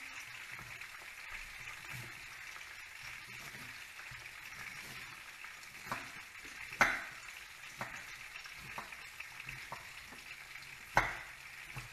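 Chicken frying in hot oil: a steady sizzle. A few light knocks, like a utensil tapping, come from about six seconds in, the sharpest near seven and eleven seconds.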